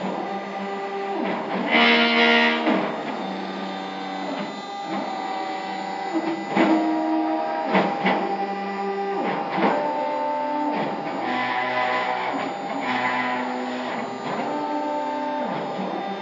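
Stepper motors of a CNC router whining at a series of steady pitches as the axes move. Each pitch holds for a second or two, then dips and rises again as the motors slow and speed up, which gives a tune-like sequence of notes.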